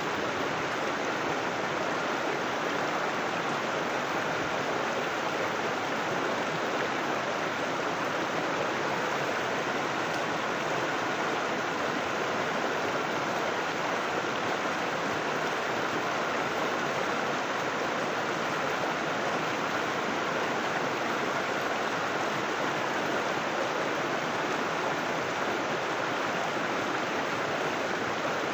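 River water flowing and splashing steadily over rocks, an even rushing sound with no change.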